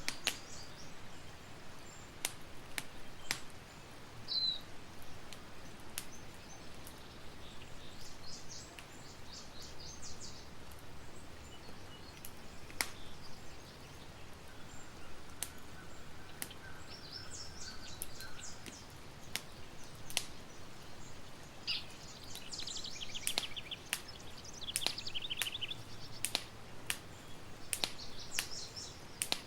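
Campfire crackling with sharp, irregular pops, while songbirds chirp and trill in the background, most busily in the last third.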